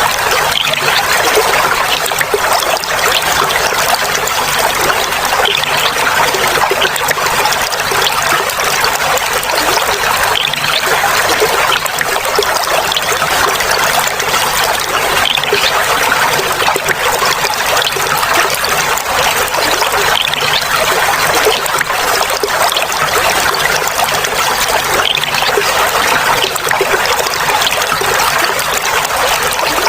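Clear water flowing and trickling steadily, a continuous burbling babble.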